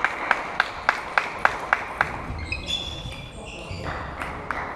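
Table tennis ball clicking in a quick, even series of hits, about four a second, which stops about two seconds in; two more single clicks come near the end. Voices are heard in the hall after the hits stop.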